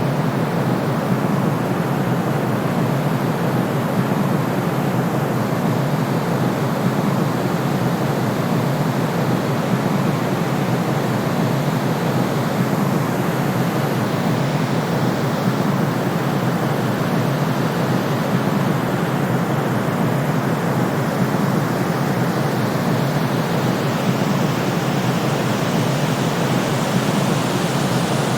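Steady white noise for sleep: an even, unbroken rushing hiss, heavier in the low pitches, with no rhythm or change.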